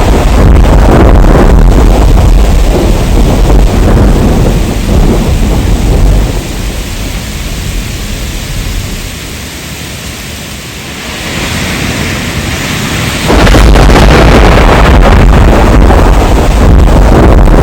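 Heavy rain with loud, deep rumbling thunder. The rumble dies away about six seconds in, leaving softer rain hiss, then cuts back in suddenly at full strength about thirteen seconds in.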